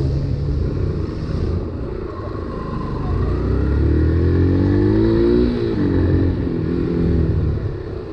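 Motorcycle engine running under way, pitch rising as it accelerates for a couple of seconds, then dropping about five and a half seconds in as the throttle comes off.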